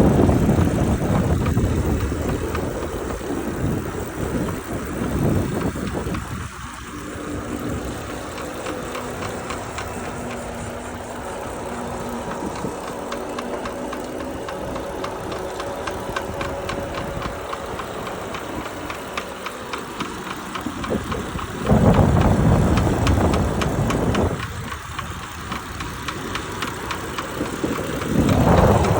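Lectric electric trike running, with a fast, even ticking through it and a hum in the middle stretch; this is the noise that led the owners to get a replacement bike. Low gusts of wind rumble on the microphone a few times.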